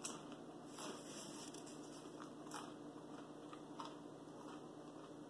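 A person chewing food, with a few faint wet mouth clicks spaced about a second apart, over a steady low hum.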